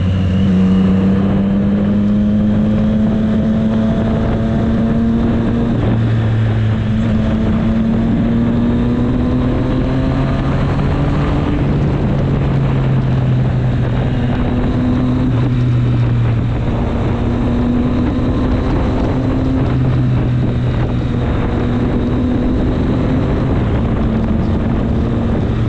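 Triumph Street Triple 765 S inline-three engine under way, revs climbing over the first dozen seconds with a gear change about six seconds in, then holding fairly steady at cruise. Wind rushes over the microphone throughout.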